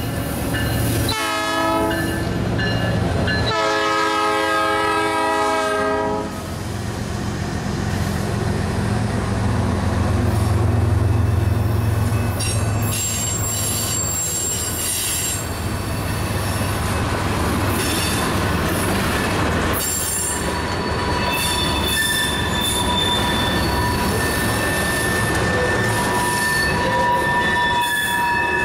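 Iowa Interstate SD38-2 diesel locomotive sounding its horn, a short blast about a second in and a longer one ending around six seconds, then its engine rumbling past. Tank cars follow, wheels squealing and clacking over the rail joints.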